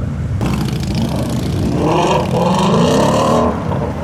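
A car engine revving as it accelerates, its pitch rising for a second or so from about two seconds in, over steady engine noise.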